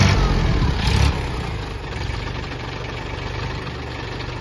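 Mahindra Oja tractor's diesel engine running, louder for about the first second, then settling into a steady idle.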